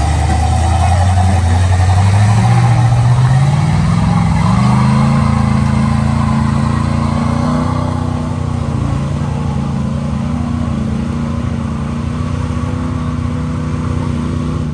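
Off-road 4x4's engine revving: its note climbs between about two and five seconds in, then holds at steady high revs with the throttle kept down as it works through mud and water.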